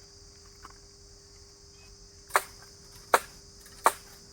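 Three sharp chops of a blade striking bamboo, about two-thirds of a second apart in the second half, over a steady high chorus of crickets.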